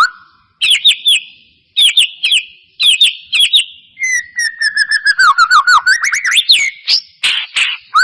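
White-rumped shama singing: short phrases of quick, clear whistled notes mixed with sharp clicks, with brief gaps between phrases, then about halfway through a longer rapid run of notes that slide down and back up for about three seconds.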